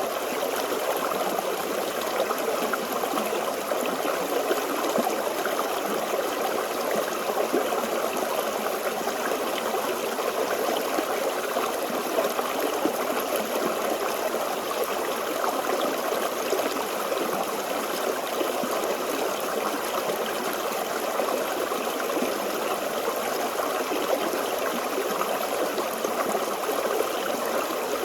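Forest stream flowing and babbling steadily over rocks, an even rush of water with no change in level.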